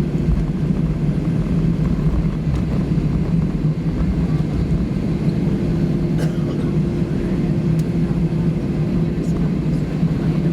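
Steady cabin hum inside an Airbus A320, a constant low drone with a couple of faint clicks about six and eight seconds in.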